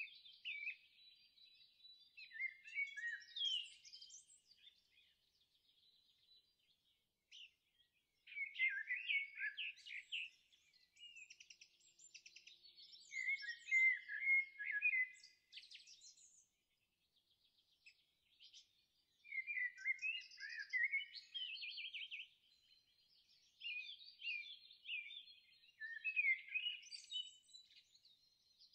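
Songbirds singing: high, varied chirps and trills in bursts a few seconds long, with short pauses between phrases.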